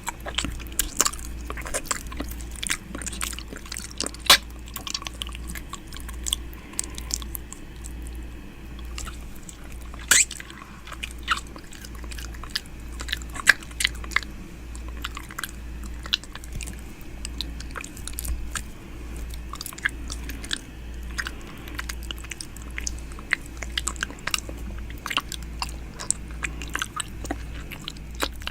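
ASMR 'ear eating' mouth sounds made close to the microphone: irregular wet clicks and smacks, several a second, over a steady low hum.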